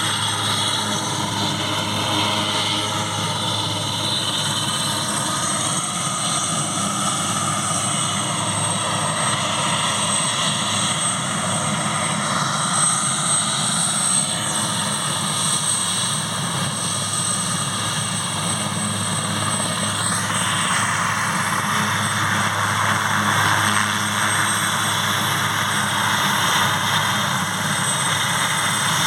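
Airbus AS 532AL Cougar twin-turbine military helicopter running steadily, its main rotor beating low under a high, steady turbine whine.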